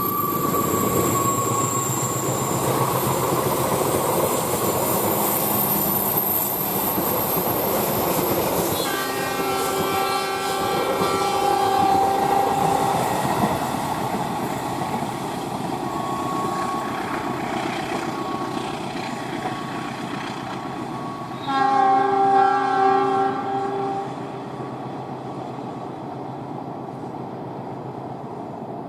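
A train passing with a steady rumble of wheels on the rails. Its horn sounds twice: a long blast about nine seconds in, and a louder, shorter one a little past twenty seconds. After that the rumble fades.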